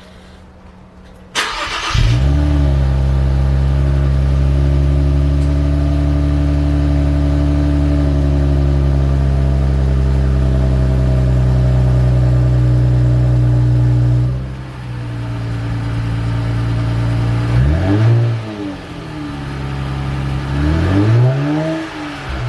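Nissan Skyline 400R's 3.0-litre twin-turbo V6 (VR30DDTT) cold-started through a Fujitsubo mid-pipe and HKS Legamax Sports muffler, heard from outside the car. The starter cranks about a second and a half in, the engine catches and holds a steady raised cold-start idle that drops lower about fourteen seconds in. Near the end the throttle is blipped twice, the pitch rising and falling each time.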